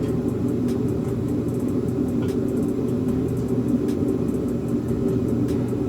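A steady, low rumbling drone, like a machine or fan running, with no change.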